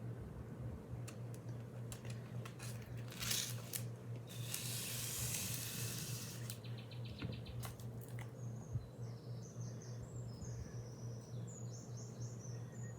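Small handling clicks and a rustling hiss lasting about a second and a half, about 4.5 seconds in, over a steady low hum, with faint high chirps from about two-thirds of the way through.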